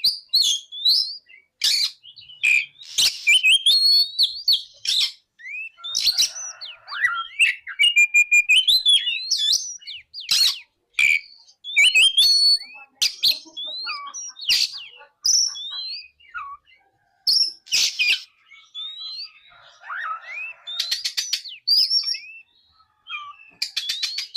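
Oriental magpie-robin (kacer) singing a varied song of whistled notes and quick glides mixed with sharp clicks and harsh notes. A fast rattling trill comes twice, about a third of the way in and again near the end.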